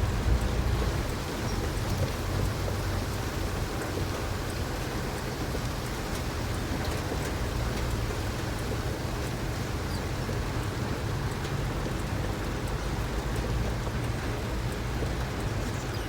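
Steady rain with a low, even rumble underneath, typical of driving in the rain.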